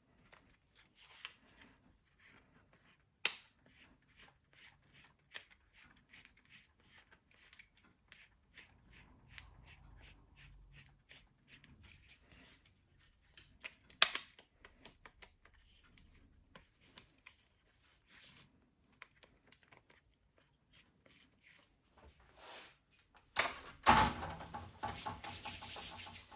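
Scattered small clicks, taps and knocks of hand work on machine parts, a few of them sharp. Near the end comes a louder, denser rattling scrape with a knock.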